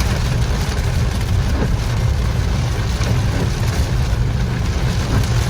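Steady low rumble of a moving vehicle's engine and tyres, under an even hiss of heavy rain.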